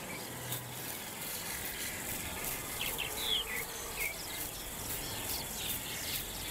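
Grassland ambience: insects chirping in a steady, high-pitched repeating rhythm, with a few short bird chirps about three and four seconds in.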